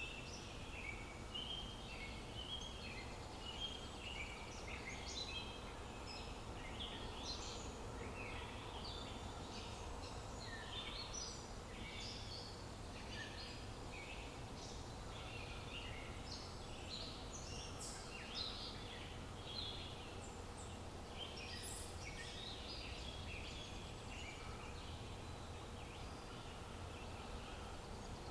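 Many small birds chirping and twittering at once in a dense, continuous chorus, over a soft steady outdoor background hiss.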